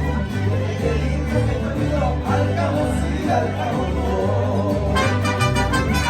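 Live mariachi ensemble playing a son, with a deep bass line stepping from note to note under strummed and bowed parts. About five seconds in, the higher instruments come in brighter and fuller.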